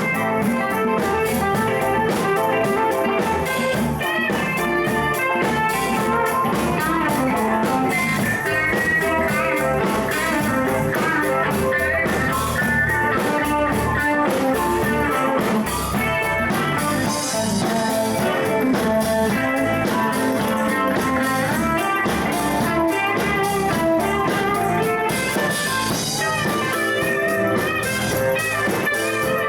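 A live band playing a guitar-led blues jam. Many guitar notes bend and waver over a steady accompaniment.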